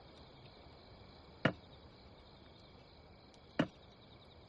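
Two sharp wooden knocks, about two seconds apart, setting a slow beat to start a folk song.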